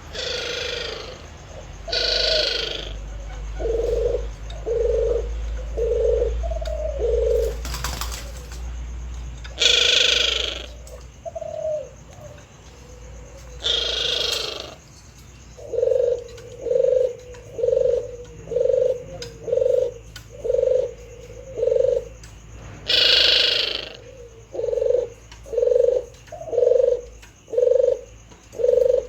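Male puter dove cooing: runs of short, low, evenly spaced coos, about one every half-second, with pauses between the runs. Several brief, sharper, higher calls from another bird cut in between, and there is one sharp click about eight seconds in.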